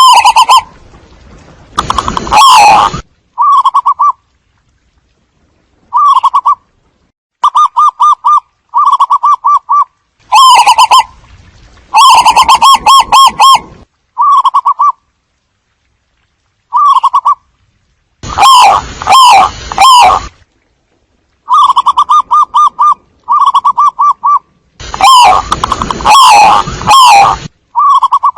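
Zebra dove song: phrases of rapid, stuttering cooing notes repeated with short pauses between them. Some phrases are very loud and distorted.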